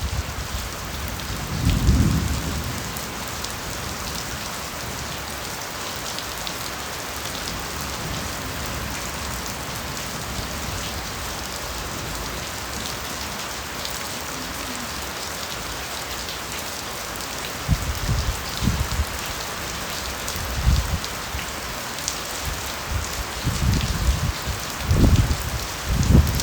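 Steady rain falling through a bamboo forest, pattering on leaves. Low rumbles come about two seconds in and again several times in the last third.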